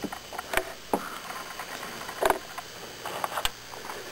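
Small clicks and taps of fingers handling a screw and spacers on an RC rock crawler's 3-link suspension during a trail repair, with sharper clicks about half a second, two seconds and three and a half seconds in.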